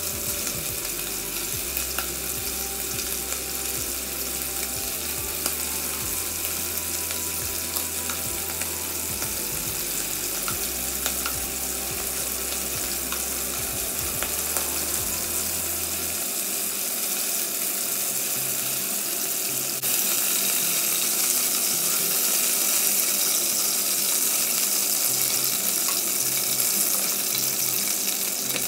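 Marinated beef cubes frying in oil and butter in a pot: a steady sizzle, with light clicks of metal tongs against the pot as the pieces are turned. About two-thirds of the way through the sizzle gets louder.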